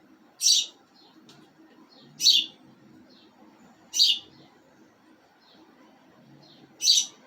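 Small birds chirping: four loud, sharp, high chirps spaced a second or two apart, with fainter chirps in between.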